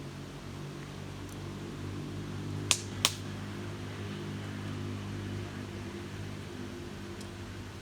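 A steady low humming drone from a small machine, with two sharp clicks close together about three seconds in.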